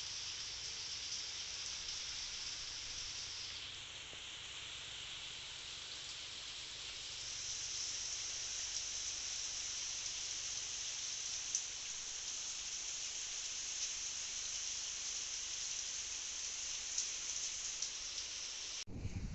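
Heavy rain falling steadily, an even hiss that eases slightly for a few seconds and then comes back heavier, cutting off abruptly just before the end.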